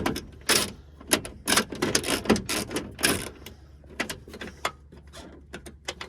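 Irregular metallic clicks, knocks and short scrapes of hand tools and latch parts being worked inside a vehicle door, with no steady rhythm.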